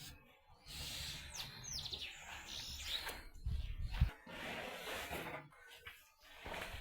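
A bird chirping, a few short falling calls about a second and a half in, among light rustling. A low rumbling thump about four seconds in is the loudest moment.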